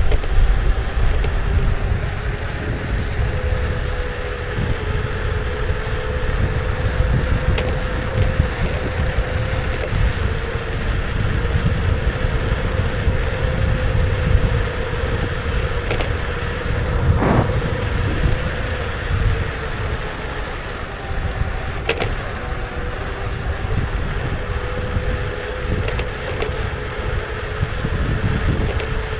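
Kukirin G2 electric scooter riding along: a steady motor whine that drifts slightly in pitch over low wind and road rumble, with a few sharp knocks about halfway through and again later.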